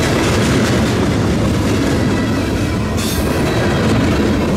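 Cars of a CSX mixed freight train rolling past close by: a steady loud rumble and rattle of steel wheels over the rails, with a brief high-pitched hiss or squeal about three seconds in.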